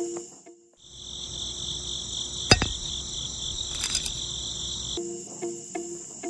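Crickets trilling steadily and high-pitched, with one sharp click about two and a half seconds in and a lighter rattle near four seconds. A plucked background tune plays at the very start, breaks off, and comes back about five seconds in.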